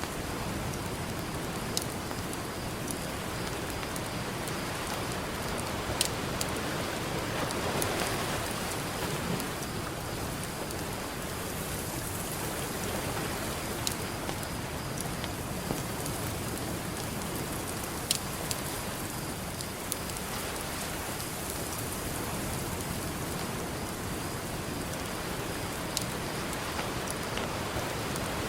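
Campfire crackling, with sharp pops every few seconds, over the steady wash of ocean surf.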